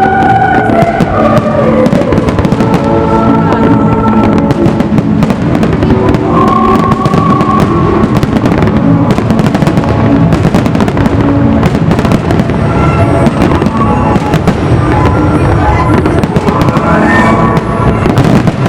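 Fireworks display: a dense, continuous barrage of bangs and crackle, with loud music playing alongside. A rising whistle sounds near the end.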